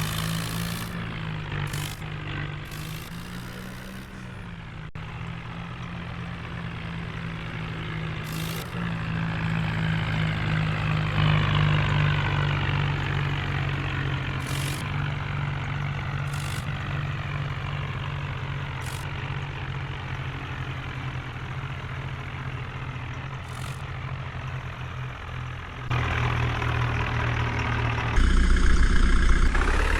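Heavy vehicle's diesel engine running steadily, its sound stepping up sharply twice near the end.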